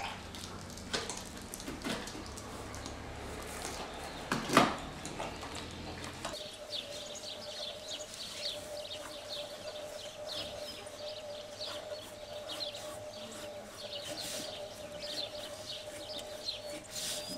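Small birds chirping in quick, high, repeated calls over a steady faint hum, after a quiet stretch of room tone with a sharp click about four and a half seconds in.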